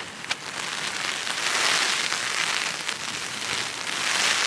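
Heavy rain beating on a tarp shelter, a dense steady hiss that swells twice as strong wind gusts drive it, with a single sharp drop tick about a third of a second in.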